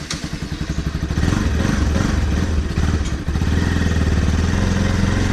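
A two-wheeler's engine starting up and running at idle, its firing pulses quickening and growing louder over the first second before settling into a steady run.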